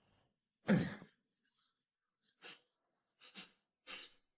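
A man's pained vocal sounds: a short voiced groan about a second in, then three short breathy gasps. He is aching and sore.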